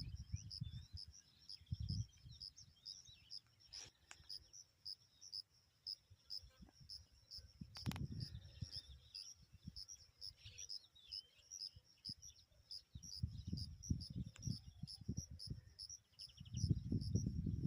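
A cricket chirping steadily, about three high chirps a second, with faint bird twitters in the background. Bouts of low rumble come and go, loudest near the end.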